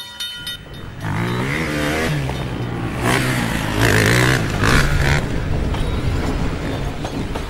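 Car engine sound effect revving up and running, its pitch rising and falling, with bursts of rushing noise about three, four and five seconds in.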